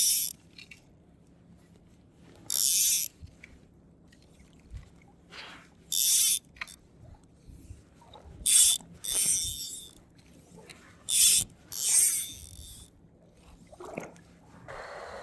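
Fly reel's click-pawl drag buzzing in short bursts as line is stripped off, about seven pulls.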